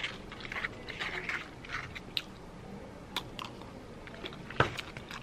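A person eating: quiet chewing with scattered small clicks and crunches, and one sharper knock near the end.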